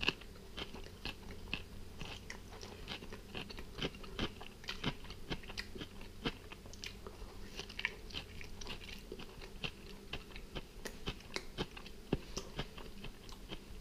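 A person biting into and chewing a slice of gluten-free chickpea-flour pizza: quiet, irregular crunching and mouth clicks. The base is slightly crisp underneath but crumbly, like shortcrust, rather than crackly.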